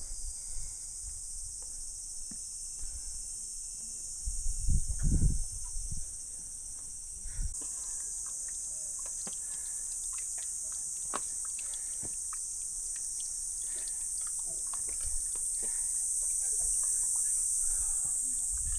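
Steady, high-pitched chorus of insects buzzing continuously, with some low bumps on the microphone about four to six seconds in.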